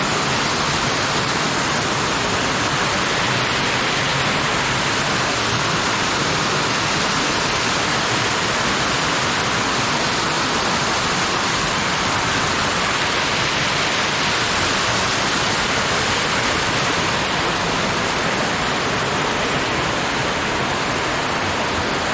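Rushing water of a mountain stream tumbling over cascades: a steady, loud hiss with no let-up.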